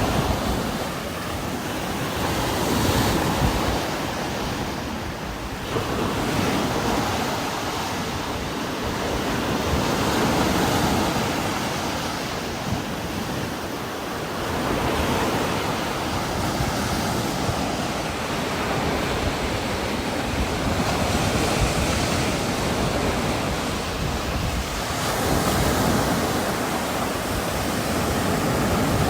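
Heavy rain falling steadily with strong wind gusting through trees, swelling and easing every few seconds.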